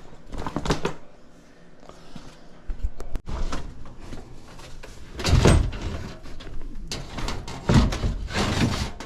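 Irregular knocking, scraping and thumping of hands-on work on a wall-mounted air handler's sheet-metal cabinet as it is worked loose, with two heavy thumps about five and a half and eight seconds in.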